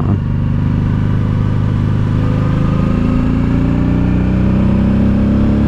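Honda Deauville's V-twin engine running under load on a climb, its pitch rising slowly over the second half as the bike picks up speed.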